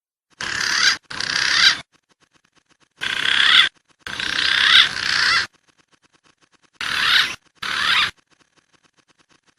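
Recorded wild pigeon calls from a bird-lure track, in six short scratchy bursts grouped in three pairs, each pair cut off abruptly.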